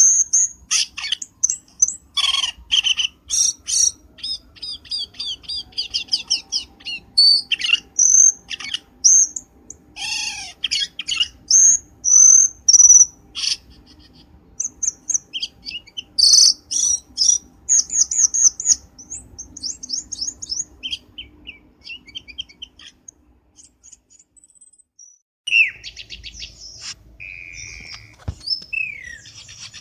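Cucak keling song as a bird-trapper's lure call: a fast, varied run of chirps, whistles and trills. It pauses for about two seconds two-thirds of the way through, then starts again.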